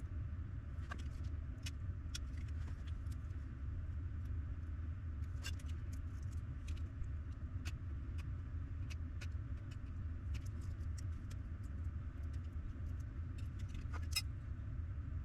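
Steady low rumble with scattered light clicks and taps throughout, one sharper click near the end.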